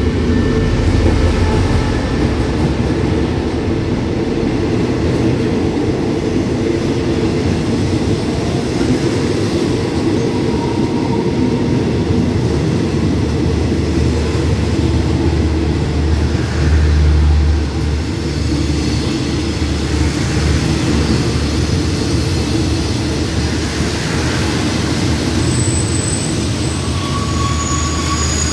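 Diesel-electric locomotive of a Thai express train passing close, then its passenger carriages rolling past with a steady low rumble of wheels on rail as the train slows into the station. Thin high-pitched wheel or brake squeals begin near the end.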